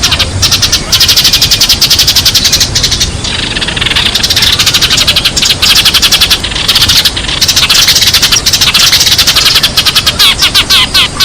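Sparrows chirping in a loud, rapid chatter of short high chirps, many a second, broken by a couple of brief lulls.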